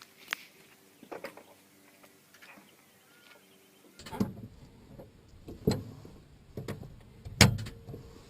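A series of separate knocks and clunks, like things being handled or latched, the loudest about seven seconds in.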